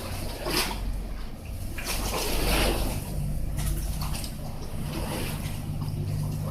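Sightseeing boat's engine running with a steady low drone under rushing, splashing water from its wash, the water surging louder about two seconds in.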